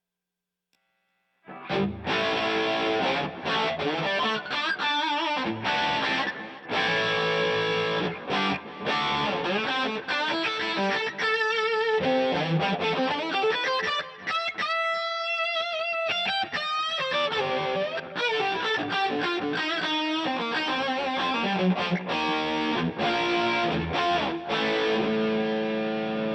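Distorted electric guitar played through the DVII amplifier, driven by overdrive, fuzz and boost pedals. The playing starts about a second and a half in, with a long held note wavering in pitch near the middle.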